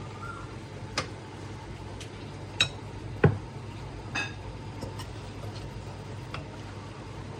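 A few scattered clinks and knocks of dishes and utensils over a steady low hum; the loudest, about three seconds in, is a knock with a dull thud.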